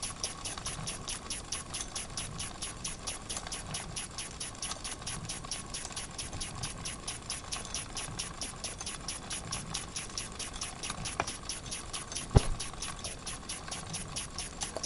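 Wilesco model steam engine ticking over slowly, its exhaust puffing in a steady rhythm of about five puffs a second, with steam escaping from a leak: a hole in the steam chest left by a missing screw under the cylinder. A single sharp knock sounds about twelve seconds in.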